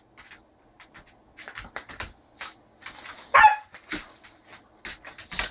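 Puppy snapping at soap bubbles, his teeth smacking together in quick, irregular clicks, with one short bark about three and a half seconds in.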